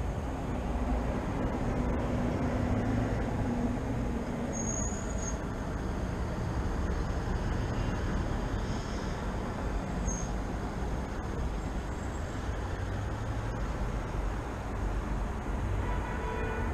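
Steady rumble of road traffic, with a low hum over the first few seconds and a couple of brief, faint high chirps about five and ten seconds in.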